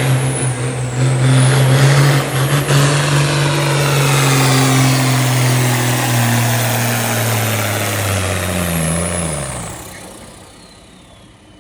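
Pulling tractor's engine running hard and loud at steady high revs, with a high whine over it. About eight seconds in, the revs and the whine fall away and the engine winds down to a much quieter level.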